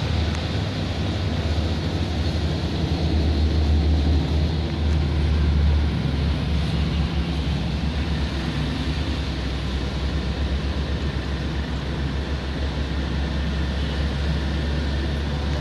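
Steady low rumble of a moving car, its engine and tyres running on a rain-wet road, heard from inside the car.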